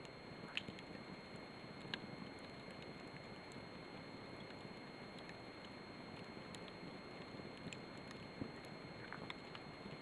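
Campfire burning with a steady rushing hiss and scattered sharp pops and crackles, a few louder snaps about half a second in, around two seconds in and near the end.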